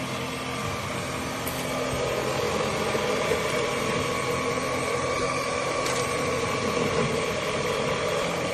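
iXlion cordless stick vacuum running steadily: an even motor whine over rushing air, with no change in speed.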